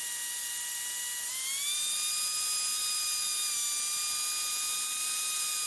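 Steady whine of a Cessna 152's engine with the throttle at idle for a simulated engine failure, as heard in the cockpit intercom audio. Its pitch rises a little about a second in and then holds.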